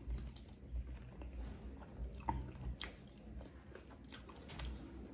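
Close-up chewing of a mouthful of rice and pork, with faint scattered wet mouth clicks and smacks.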